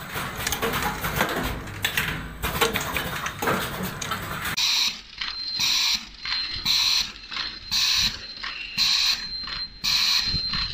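Noisy clicking and rustling, then from about halfway a high electronic beep repeating about once a second, like an alarm or machine signal.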